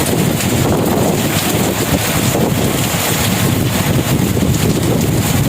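Wind buffeting the microphone: a loud, steady, rough rumble that flickers unevenly.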